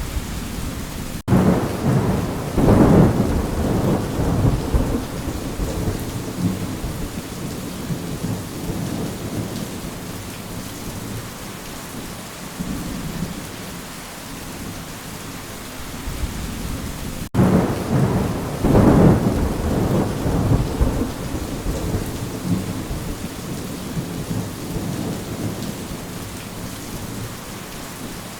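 Steady rain with two rolls of thunder, one about a second in and another a little past the middle, each starting suddenly and rumbling away over several seconds.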